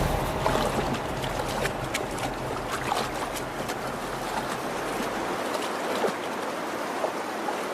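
Creek water running steadily, with many small splashes and ticks of water scattered throughout.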